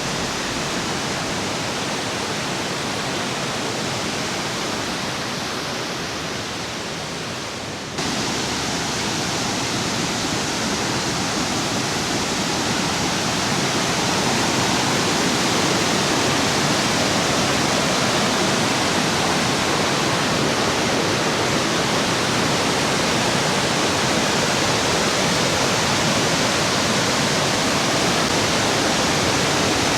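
Steady rushing roar of the Curug Malela waterfall, a wide 60-metre falls. About eight seconds in it cuts abruptly to a louder, brighter rush.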